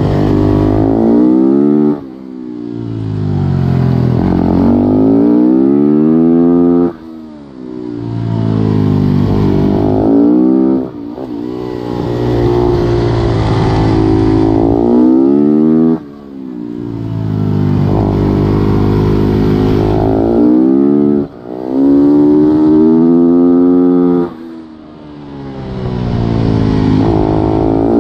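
Supermoto race motorcycle engine heard on board, revving hard with rising pitch through the gears, then the throttle shut for a corner so the sound falls away sharply, before accelerating again; about six such corner cycles.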